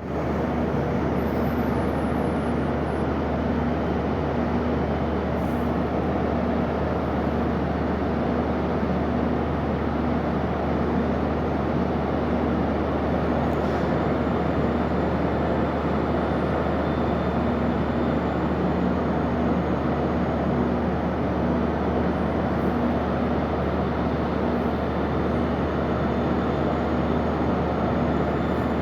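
Ship's machinery running with a steady low drone and an even rushing noise over it, unchanging throughout.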